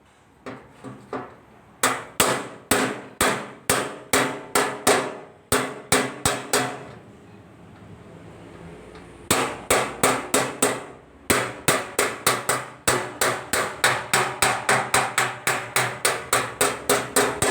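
Hammer blows on a car's sheet-metal hood, each a sharp metallic strike with a short ring. One run comes at about two a second, then a pause of about two seconds, then a faster run of about three a second, as in working vent holes into the hood.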